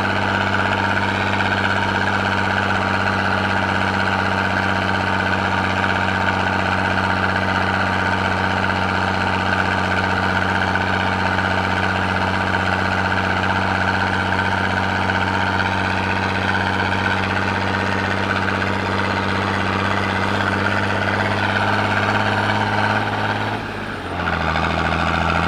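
Eicher Wotan 1 tractor's six-cylinder diesel engine pulling hard uphill under heavy load, running at a steady pitch. Near the end the sound dips briefly and the engine carries on at a lower pitch.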